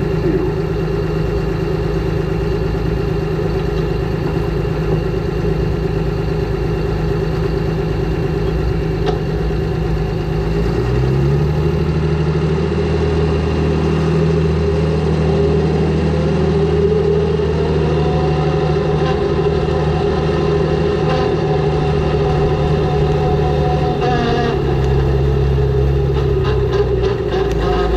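Air-cooled diesel engine of a Deutz pulling tractor running at a steady idle. About eleven seconds in the engine speed steps up a little, and a tone climbs over the next few seconds before the engine holds steady again; near the end it drops back slightly.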